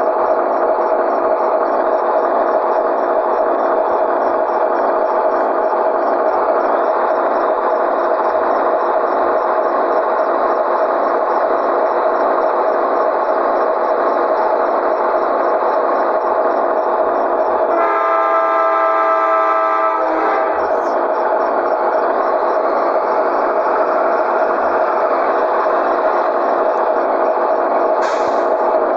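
Scania 113G truck's inline-six diesel running steadily with a fast, even pulse. About two-thirds of the way through, an air horn sounds one chord-like blast of about two seconds. A short hiss of air comes near the end.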